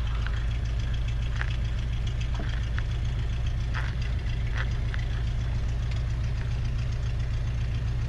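Cessna 172RG's four-cylinder piston engine and three-bladed propeller running at low taxi power, a steady low drone, with a few faint short clicks over it.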